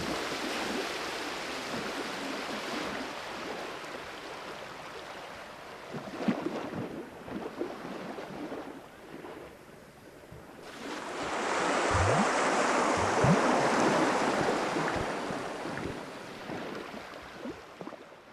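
Ocean waves washing in, a larger swell building about halfway through and then slowly fading.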